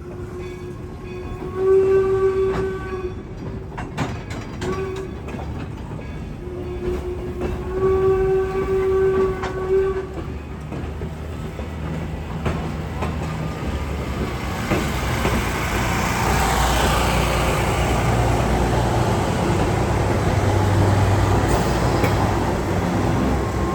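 Train whistle sounding several blasts, short and long, one steady note each. Then the train runs up close, its engine and wheels on the rails growing loud and staying loud as it passes.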